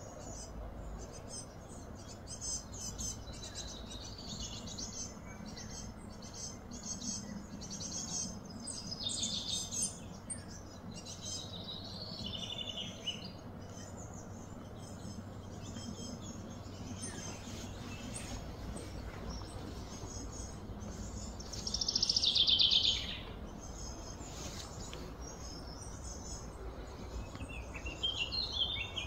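Birds chirping and calling over a steady low background noise, with one louder, rapid trill about three-quarters of the way through.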